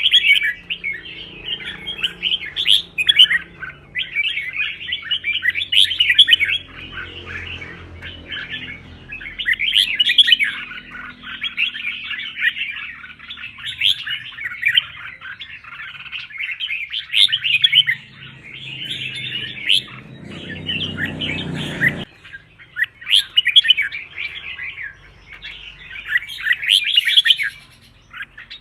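Red-whiskered bulbul song: a near-continuous run of quick, chirpy warbled phrases with brief pauses between them. Under it a faint low rumble cuts off suddenly about three-quarters of the way through.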